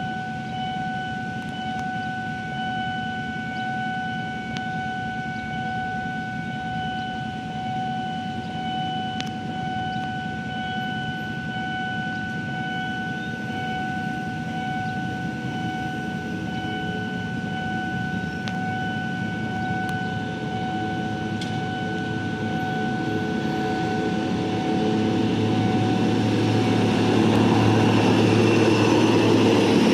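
A steady electronic warning tone sounds until a few seconds before the end. Under it, the low rumble of the approaching Daewoo diesel locomotive grows steadily louder.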